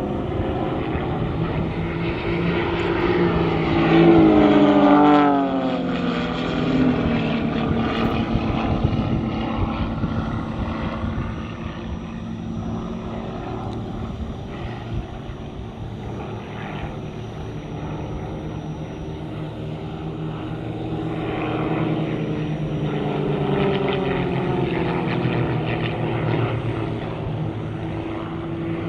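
A propeller aircraft flies past. Its engine drone peaks and drops in pitch as it passes, about five seconds in, then fades, and swells again later as an aircraft comes round once more.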